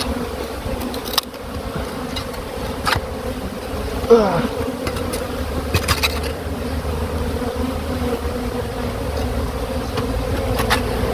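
Steady buzzing of a honeybee colony disturbed as its comb is cut out of a drain, with a brief falling whine about four seconds in and a few sharp clicks from handling.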